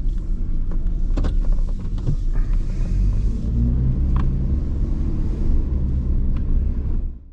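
Truck cab noise while driving: a steady low engine and road rumble with a few clicks and rattles, cutting off abruptly near the end.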